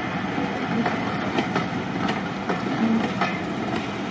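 A train rolling past on jointed track: a steady rumble of wheels, with sharp clicks roughly every half second to a second as the wheels cross the rail joints.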